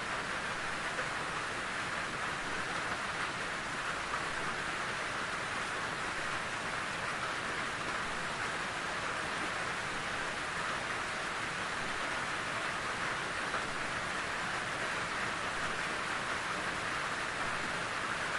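Steady rainfall in a forest, an even hiss of rain with no separate drops or events standing out.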